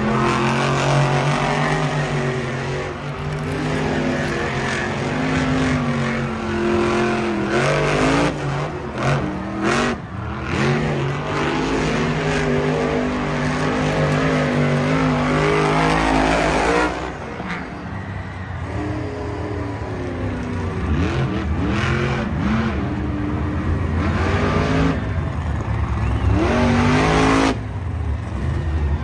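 Monster truck engine sounds revving and racing, the engine pitch rising and falling again and again, louder in the first half.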